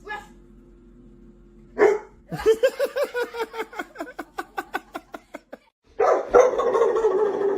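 A dog barking in a rapid run of short barks that fade away, then a long, unbroken cry begins about six seconds in.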